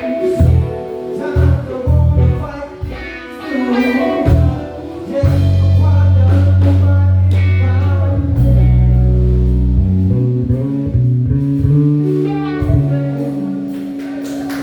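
Live blues-soul band playing: drums, keys and a lead line over electric bass, which holds long low notes through the middle.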